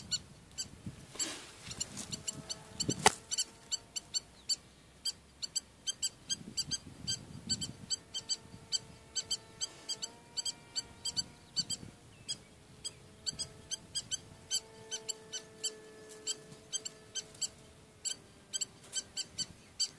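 Spur-winged lapwing chicks peeping: short, high-pitched peeps repeated at about three a second throughout, with one louder click about three seconds in.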